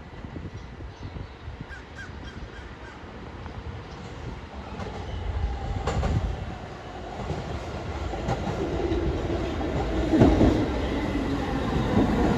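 New York City subway train approaching and pulling into the station, growing steadily louder, with wheels clicking over rail joints. A squealing tone comes in over the last few seconds as it slows.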